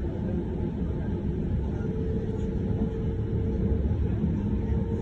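Interior running noise of a Trenord TSR electric multiple unit at speed: a steady low rumble of the wheels on the rails, heard inside the passenger car. A faint steady tone comes in about two seconds in.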